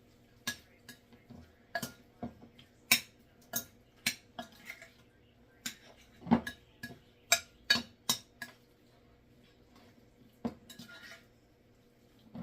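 A utensil clinking and scraping against a bowl as a broccoli salad is stirred: irregular clinks, a few a second, with a pause of about two seconds in the second half.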